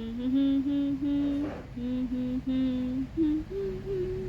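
A run of steady, humming-like vocal notes, each held about half a second, stepping up and down in pitch with short breaks and ending on two higher notes.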